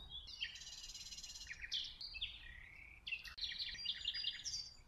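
Songbirds singing: quick trills and chirps, several phrases overlapping, over a faint low rumble.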